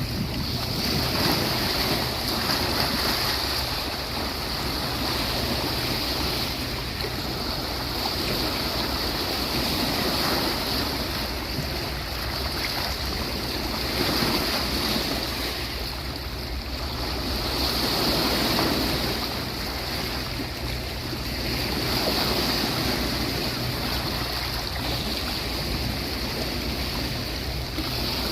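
Sea waves breaking and washing onto a beach, a continuous rushing that swells and eases every few seconds as each wave comes in.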